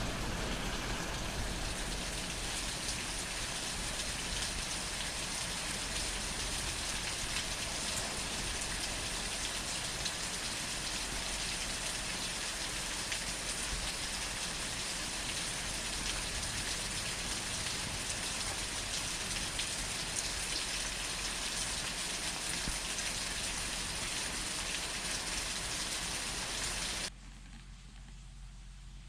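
Steady rain falling, a dense even hiss of drops; about 27 seconds in it cuts off suddenly to a much quieter background.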